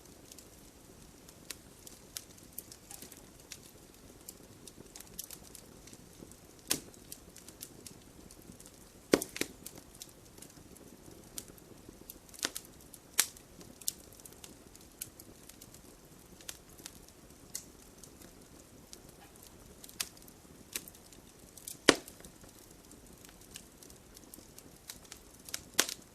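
Wood logs burning in a fireplace, crackling with irregular sharp snaps over a soft, steady hiss of flame. Two louder pops stand out, one about nine seconds in and one about twenty-two seconds in.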